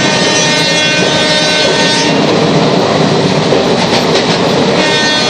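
A train running at speed, heard from aboard: a loud, steady rumble of wheels on the track. A high whine of several steady tones fades out about two seconds in and returns near the end.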